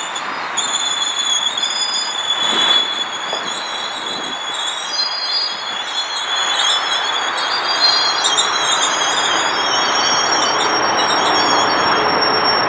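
GO Transit bilevel commuter train rolling past with a steady rumble of the cars. A high, wavering squeal comes from the running gear and grows into several overlapping squealing tones in the second half.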